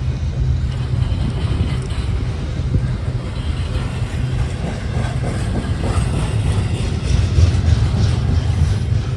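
Train running on the rails: a steady low rumble that swells a little about seven seconds in.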